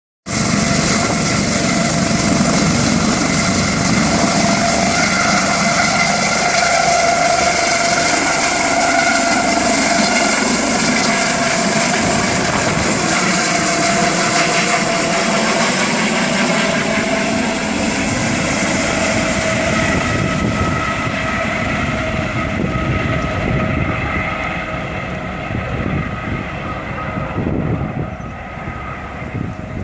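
Medical helicopter taking off: loud turbine whine and rotor noise with wavering whining tones. It grows quieter over the last ten seconds or so as the helicopter climbs away.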